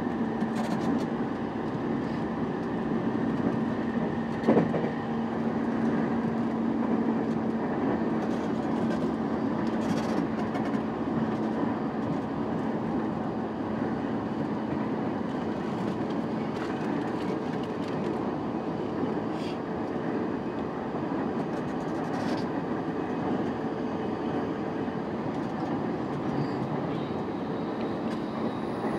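JR East E233-5000 series electric commuter train running, heard from inside the car. Wheels rumble steadily on the rails, with a low steady hum that fades out a little past halfway. There is one sharp knock about four and a half seconds in.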